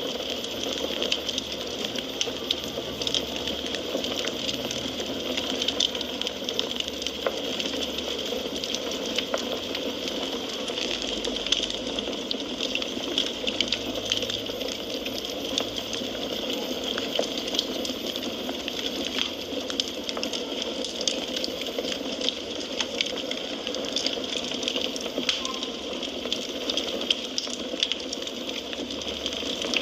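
Wood fire crackling in a fireplace: a steady hiss with frequent small pops and snaps throughout.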